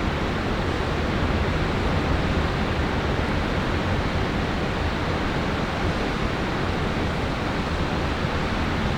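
Strong wind blowing across the microphone: a steady rush of noise with a heavy low rumble.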